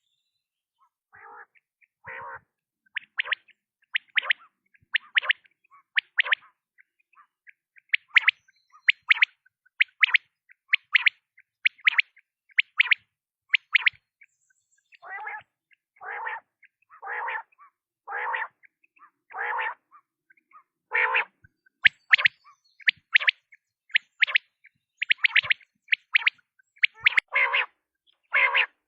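Quail calling over and over: short, sharp, high notes about once a second, often in quick doubles or triples. About halfway through these give way for a while to lower, rougher calls, and near the end the two kinds mix.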